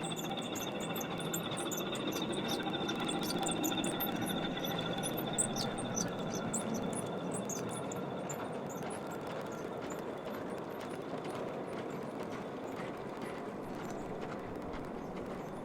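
5-inch gauge miniature electric locomotive running: its motor and gearing give a steady whine, with light rapid clicking over the first half. The whine fades away after about eight seconds.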